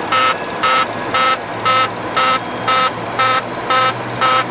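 A cockpit alert tone in a Boeing 737-200, beeping evenly about twice a second, over a steady low hum.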